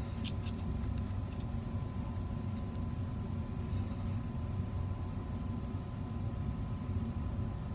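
Steady low workshop hum with a faint steady whine over it, and a few light metallic ticks in the first half second as small gold pieces are handled.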